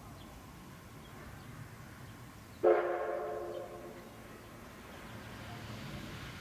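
C11 steam locomotive's whistle giving one short blast about halfway through: a sudden, loud chord of several tones that dies away within a second or so.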